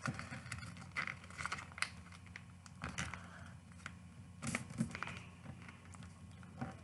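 Sheet of paper being folded and creased by hand: intermittent crinkles, rustles and short sharp crackles over a faint steady hum.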